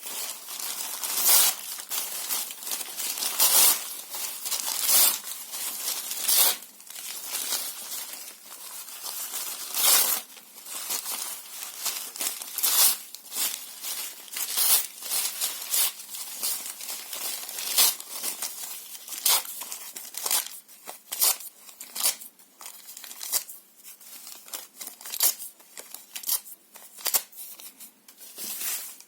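Paper and cardboard being torn and crumpled by hand: irregular rips and crinkles, with the strokes coming shorter and quicker in the second half.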